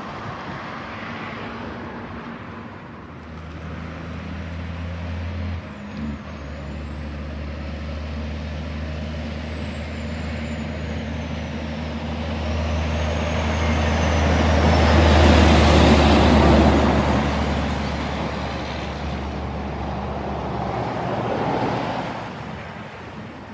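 A heavy truck's diesel engine running as it approaches and drives past, building to its loudest about two-thirds of the way through and then fading. A thin high whine wavers in pitch during the approach, and there is a short knock about six seconds in.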